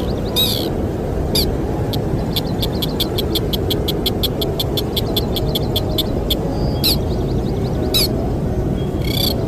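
A Sintar bird calling: a few sharp, falling chirps, and in the middle a fast, even run of short notes at about seven a second. Under it runs a steady low wind rumble.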